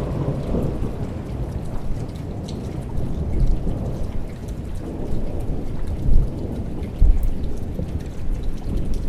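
Thunderstorm: steady rain falling and pattering, under a deep rolling rumble of thunder that swells several times, loudest a little after the middle and again about two-thirds of the way through.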